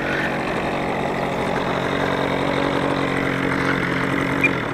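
A radio-control airplane's two-stroke glow engine idling steadily; the owner believes it is an OS .46 AX. The engine sound stops near the end.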